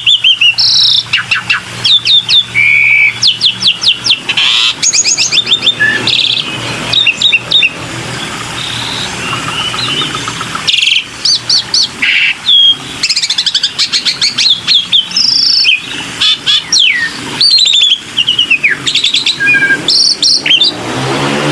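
Black-winged myna (jalak putih) singing a long, varied song: fast runs of harsh repeated notes, clear whistles and sweeping calls, broken by short pauses.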